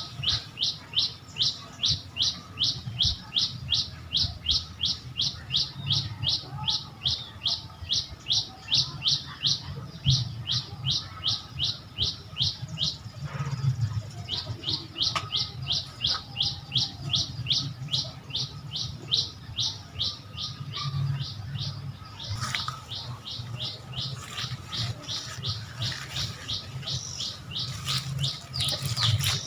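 A bird calling over and over in short, high chirps, about two a second, with a break of about a second partway through. A low steady rumble runs underneath.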